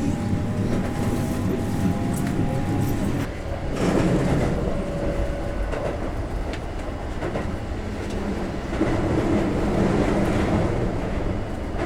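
Electric commuter train running on the rails, with a thin motor whine rising in pitch over the first few seconds.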